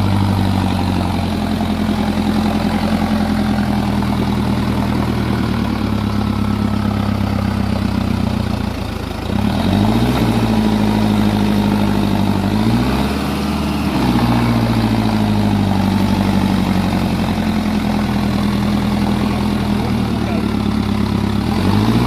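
Tractor engine running steadily, revving up three times: about ten seconds in, again around thirteen seconds, and near the end.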